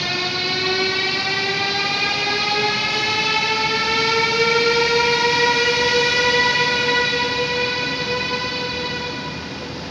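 Electric train's traction drive whining as the train accelerates. One pitched tone climbs slowly and steadily and fades near the end.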